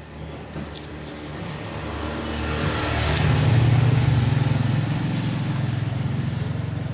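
A motor vehicle's engine running with a low, steady hum. It grows louder over a couple of seconds, peaks about halfway, then eases slightly.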